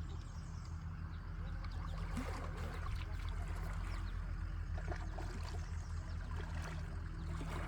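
Water trickling and lapping, with a steady low hum underneath throughout.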